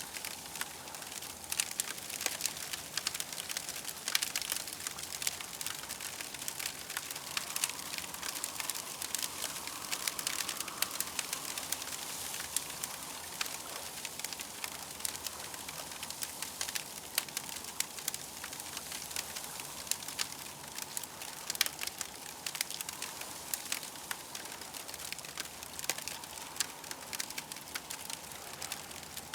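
Campfire crackling steadily, with many small irregular pops and snaps over a soft hiss.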